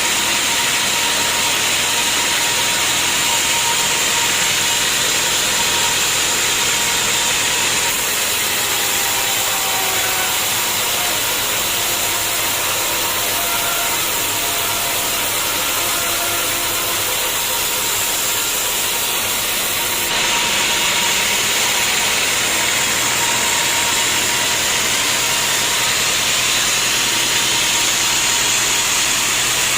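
Sawmill machinery running steadily as a saw cuts through a log into planks, a continuous loud mechanical noise with a steady whine. The sound shifts abruptly about 8 and 20 seconds in.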